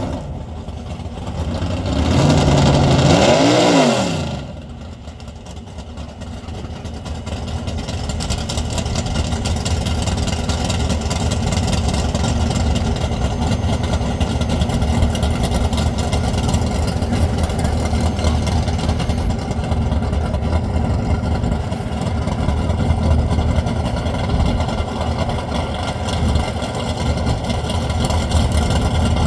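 Race vehicle's engine under hard acceleration on a standing-mile run. A loud note rises and then falls in pitch about two to four seconds in, then gives way to a long steady engine drone that slowly grows louder.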